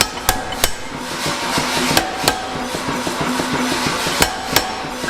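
Blacksmith's hammer striking steel at the anvil, six ringing metallic blows falling in pairs about every two seconds.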